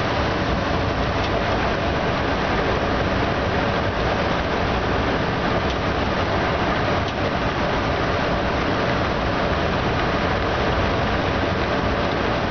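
Steady running noise inside a locomotive's cab at about 93 km/h: the wheels on the rails and the locomotive's drone, with a few faint clicks.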